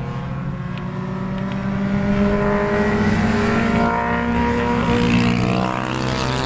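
A motor vehicle's engine running steadily, growing louder over the first few seconds and easing slightly near the end, as if it is approaching and passing.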